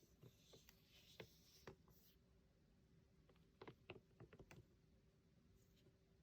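Near silence with faint scratchy brushing and light clicks, including a quick cluster of taps a little past the middle: a paintbrush working acrylic paint on a canvas.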